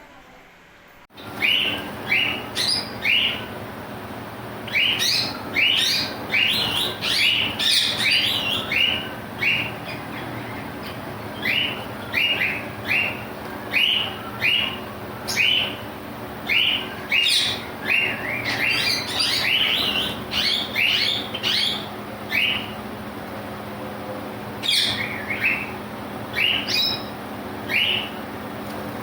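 Parrots calling: short, sharp chirps repeated in quick runs of a few at a time, starting about a second in, over a steady low hum.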